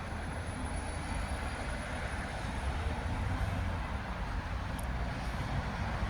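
Train rumbling steadily, with a brief click about five seconds in.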